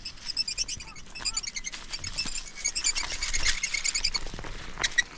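Small birds chirping: a dense run of short, high chirps in quick succession, with a few sharp clicks near the end.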